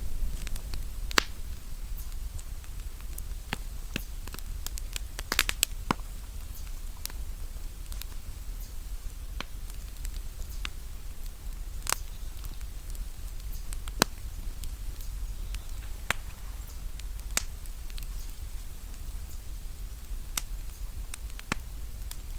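Campfire crackling: irregular sharp pops of burning wood, with a quick cluster of them about five seconds in, over a steady low rumble.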